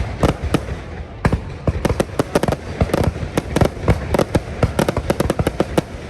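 Aerial fireworks display: a rapid, irregular barrage of bangs, several a second, over a continuous rumble of further bursts.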